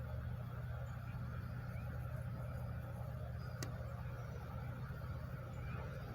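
Steady low mechanical drone of shop machinery, even in level, with a single sharp click about three and a half seconds in.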